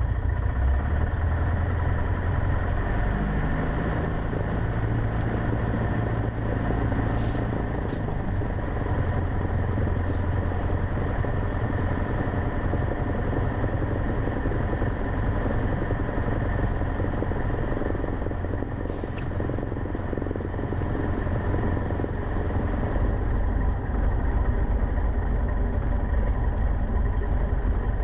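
Cessna 150's four-cylinder Continental O-200 engine running at low power while taxiing, heard from inside the cabin. The engine note shifts slightly in the first few seconds, then holds steady.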